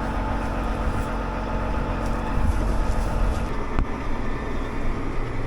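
Farm machinery engine running steadily, its note changing about three and a half seconds in, with a single sharp click shortly after.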